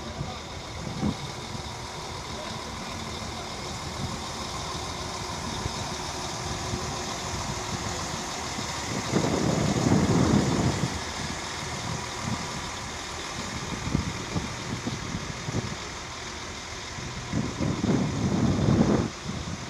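Diesel multiple unit train running, a steady low rumble that swells louder twice, about halfway through and near the end.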